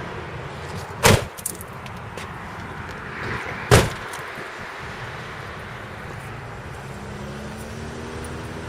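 A pickup truck's door shut twice: two loud slams about two and a half seconds apart, over a steady low rumble.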